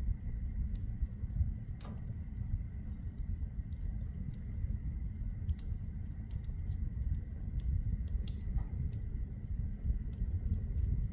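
Logs burning in a wood fireplace: irregular sharp crackles and pops over a steady low rumble of the flames.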